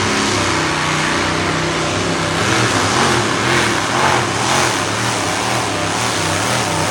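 Engine of a pulling vehicle at full effort going down the track, its pitch wavering up and down as the revs rise and fall. A rushing noise builds up over the second half.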